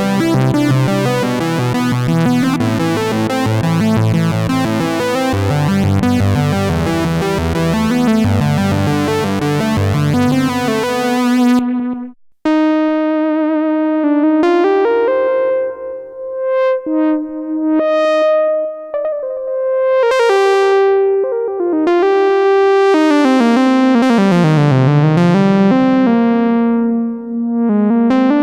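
Arturia MatrixBrute analog synthesizer playing custom lead patches. A thick, busy part of many overlapping notes cuts off about twelve seconds in. After a brief gap comes a single-note lead line whose pitch glides between notes, with bright filter sweeps opening on each phrase.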